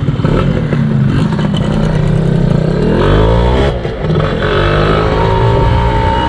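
Yamaha F1ZR's two-stroke single-cylinder engine pulling the moped along. Its pitch rises about two and a half seconds in, dips briefly near four seconds, then runs steady.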